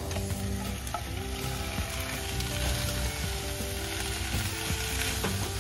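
Slices of Annou sweet potato, still wet from soaking in water, sizzling steadily in hot oil in a saucepan while a spatula stirs them, with light scraping clicks.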